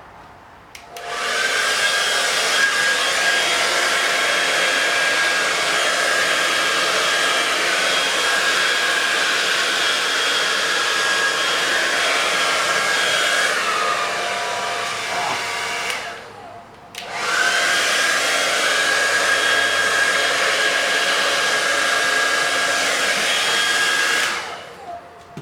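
Hair dryer running at a steady blow with a high whine. It starts about a second in, cuts out for about a second roughly two-thirds of the way through, comes back on, and stops near the end.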